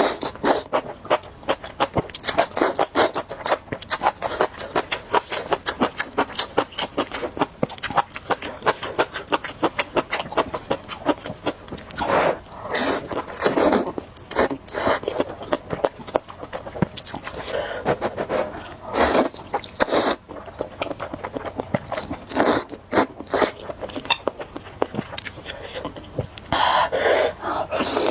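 Close-miked eating of spicy noodles: continuous wet chewing and smacking, broken by several louder slurps and sniffs.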